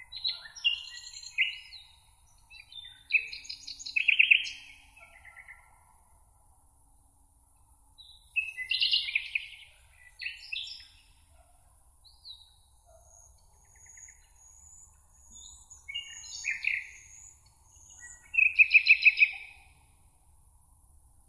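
Songbirds singing: several song phrases of chirps and fast trills, separated by pauses of a few seconds, over a steady high hiss.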